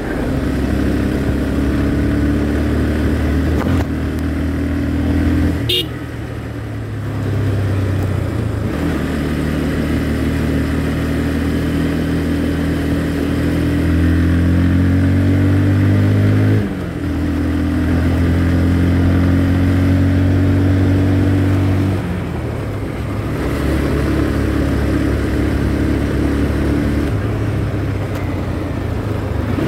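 Motorcycle engine running while riding, its note holding steady and then shifting up or down several times with throttle and gear changes; the note drops briefly about two thirds of the way in.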